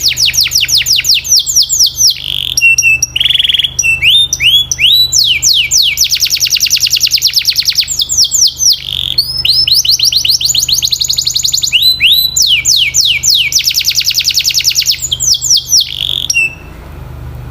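Domestic canary singing a loud, fast song of rapid repeated trills: runs of quick sweeping notes broken by short buzzy rolls and brief pauses. The song stops about a second before the end, leaving a low hum.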